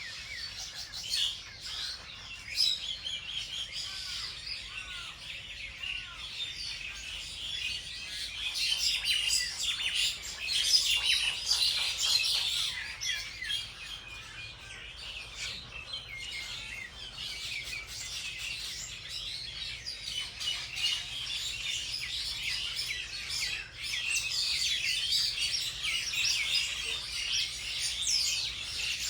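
Many small birds chirping together in a dense, continuous chorus of quick, high overlapping notes and trills.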